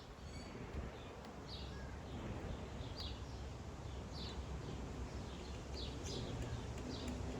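A bird calling in repeated short, high chirps, about one or two a second, over the low steady hum of honeybees around an open hive.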